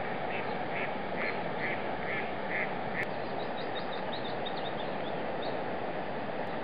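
Birds calling over a steady rushing background noise: a regular series of short calls, about two a second, for the first three seconds, then a quick run of higher, rapid chirps.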